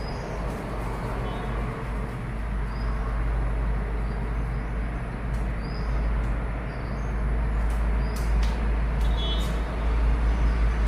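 Steady low rumble of background road traffic, with a few faint, short high chirps.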